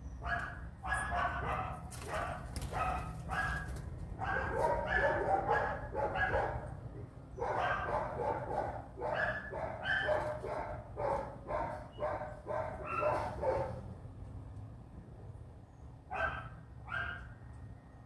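A rapid series of short, pitched animal calls, many a second, that stop about 14 seconds in and return twice near the end, over a steady low hum.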